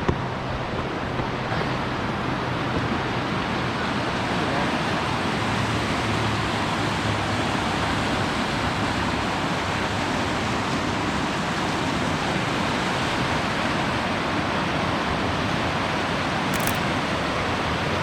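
Steady rush of flowing river water, an even hiss that holds level throughout.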